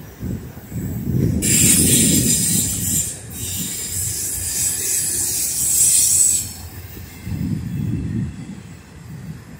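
Freight train of autorack cars rolling past, its wheels rumbling on the rails, with a high wheel squeal from about a second and a half in until about six seconds.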